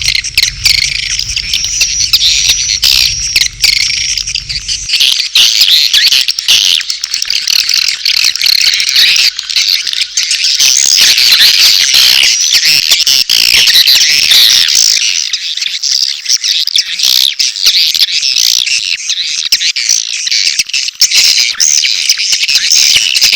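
Swiftlet lure recording: a dense, continuous chorus of twittering swiftlet calls, mixing mating calls and chick calls. A low hum underneath cuts off about five seconds in.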